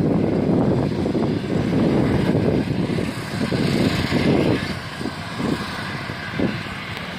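Airplane engines during a landing: a steady rushing noise that eases off about halfway through.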